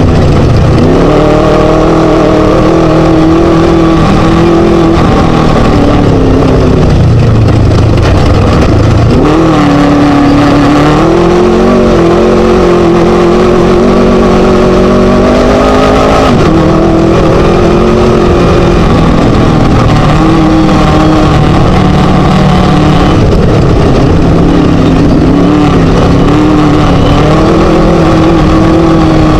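Class 1 desert race buggy's Scat V4 engine running hard and loud, its pitch rising and falling as the throttle opens and closes and the gears change, with a steady rough-terrain rumble underneath.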